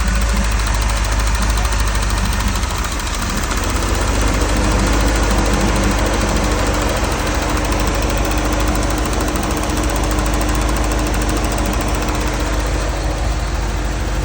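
Car engine idling roughly with a shake, which the owner takes for a misfire on old plugs and wires. The level dips briefly about three seconds in, then the running steadies.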